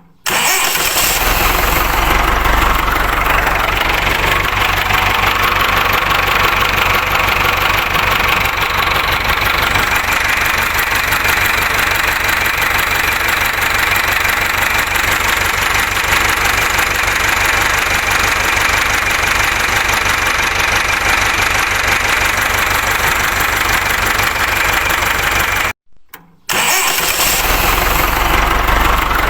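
Ford 6610 tractor's four-cylinder diesel engine running steadily. The sound cuts out abruptly for about a second near the end, then the engine is heard again.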